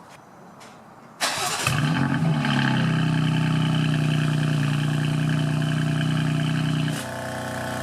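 BMW M4 Competition's twin-turbo straight-six starting with the exhaust valves open and the secondary catalytic converter removed: it catches suddenly about a second in, flares, and settles into a steady fast idle. About seven seconds in the sound drops as the exhaust valves close.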